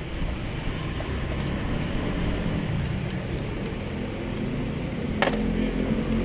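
A motor vehicle engine running steadily with a low hum, with a single sharp click about five seconds in.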